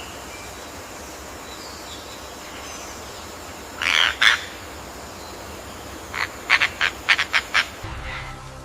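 Bird squawks over a steady background hiss of forest ambience: two loud harsh calls about four seconds in, then a quick run of about seven short calls a couple of seconds later.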